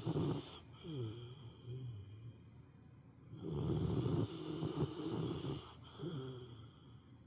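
Rottweiler snoring in her sleep: a loud, rough snore ends just after the start and another runs from about three and a half seconds in for about two seconds. Each is followed by a softer, whistling breath that falls in pitch.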